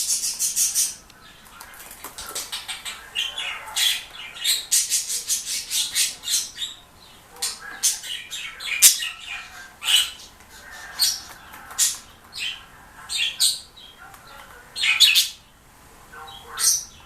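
A pet bird squawking and chirping in short, irregular calls. It opens with a fast rattling chatter in the first second.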